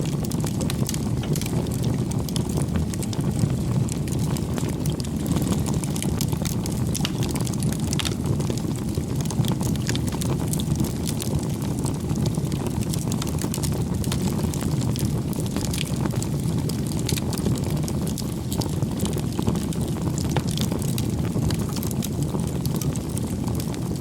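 Wood fire burning: a steady low rumble of flames with frequent small crackles and pops.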